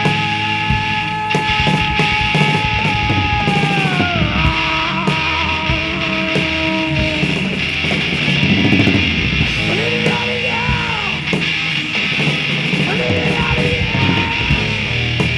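Loud rock band playing, with a lead electric guitar holding a long note that slides up at the start and drops in pitch about four seconds in, followed by shorter bent notes.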